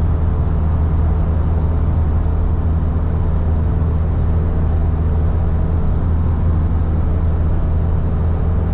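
Hino cab-over box truck cruising at highway speed, heard from inside the cab: a steady, loud low drone of engine and road noise.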